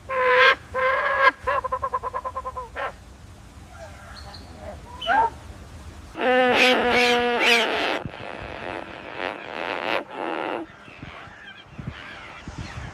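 Farm waterfowl calling. A loud call at the start runs into a fast series of short calls for about two seconds. A second loud, drawn-out call comes about six seconds in, followed by quieter calls.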